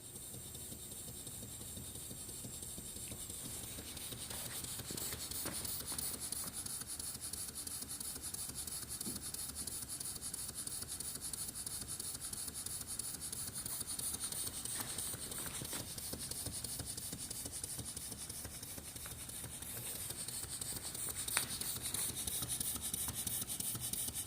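Stuart model steam engine running, a rapid even chuffing with steam hiss that grows louder over the first few seconds and then holds steady. A single sharp click comes near the end.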